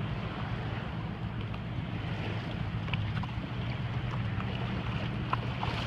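Jet ski engine running with a steady low drone, under wind and water noise.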